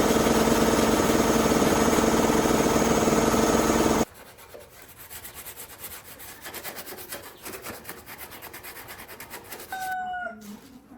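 Abrasive power tool running loud and steady on metal, cutting off abruptly about four seconds in. Quieter scraping and light ticks follow, with a brief squeak near the end.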